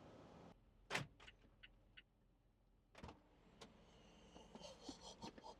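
A few sharp clicks and knocks over near silence, the strongest about a second in, then more small ticks toward the end.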